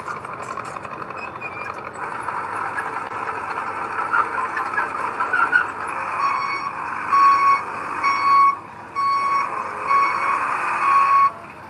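Heavy construction machinery running, with a vehicle reversing alarm beeping about twice a second from about halfway through.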